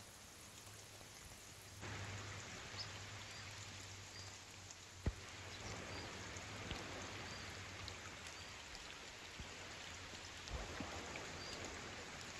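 Steady rain falling on a shallow, rocky river, the hiss of drops on the water getting louder about two seconds in. One sharp tick is heard about five seconds in.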